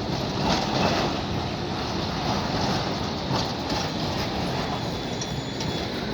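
Tram running on street rails: a steady rumble with a few short clicks of the wheels, and faint high squeal tones near the end.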